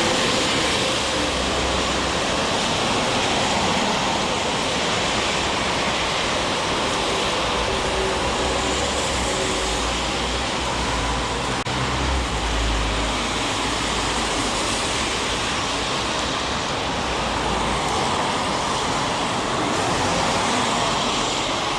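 Heavy rain falling steadily on a city street, with the low rumble of traffic passing, strongest in the middle of the stretch.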